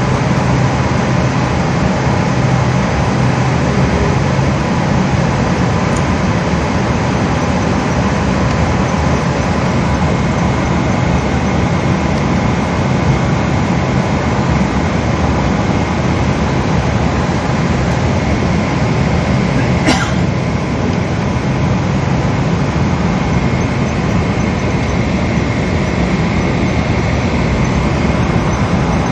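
Steady cabin noise inside a Boeing 777 on the ground after landing: the engines and air system running at low power with a faint steady whine, and one sharp click about two-thirds of the way through.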